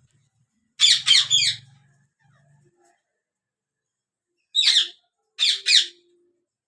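Yellow Indian ringneck parakeet squawking in short, harsh calls: three in quick succession about a second in, then one call and a quick pair near the end.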